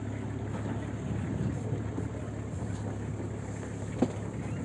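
A vehicle engine running steadily at low revs, heard from inside, with one sharp knock about four seconds in.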